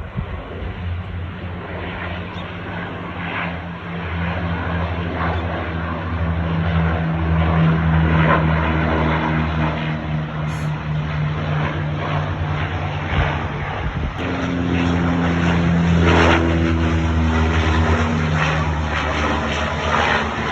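A propeller airplane's engine running steadily, a low even drone, with a brief break about two-thirds of the way through before it picks up again.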